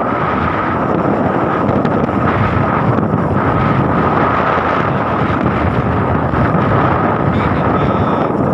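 Wind buffeting the microphone of a moving motorcycle, over the steady running of its engine and road noise, with a steady high hum.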